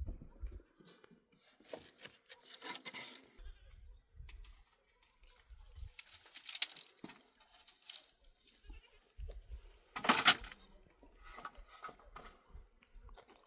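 Goats bleating: a few separate calls, the loudest about ten seconds in.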